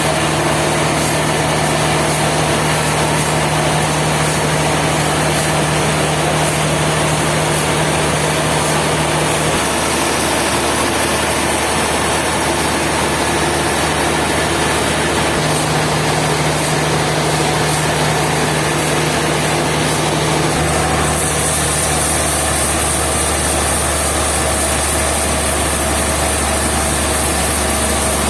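An engine running steadily with no letup. Its low hum changes character about ten, fifteen and twenty-one seconds in.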